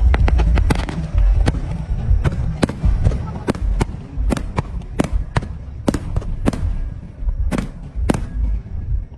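Fireworks going off: a rapid string of sharp cracks in the first second, then separate loud bangs about every half second to a second, over a continuous low rumble.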